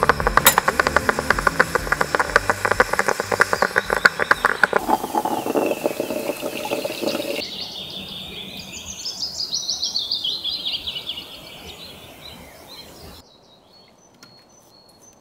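A rapid, dense crackling for about the first five seconds, then a small songbird singing trilled phrases that fall in pitch, about eight to eleven seconds in.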